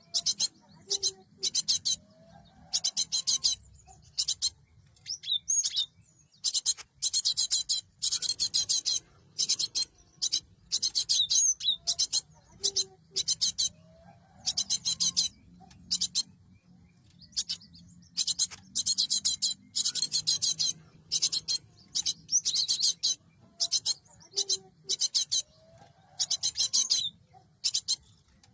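Cinereous tit (gelatik batu) calling in high, rapid chattering bursts: quick runs of repeated notes, each burst up to about a second long, coming one after another with short gaps.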